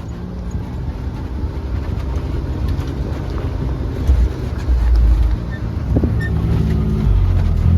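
Can-Am Maverick X3 Max side-by-side's engine running at low speed as the machine creeps along, with its pitch shifting, over wind buffeting the microphone.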